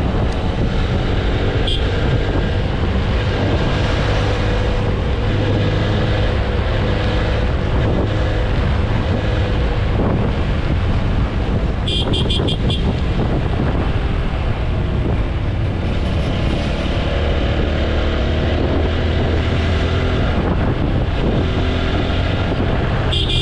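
TVS Apache RTR 160 4V's single-cylinder engine running steadily at road speed, with wind and road noise around it; the engine pitch drifts up and down a little. A brief, rapidly pulsing horn-like tone sounds about halfway through.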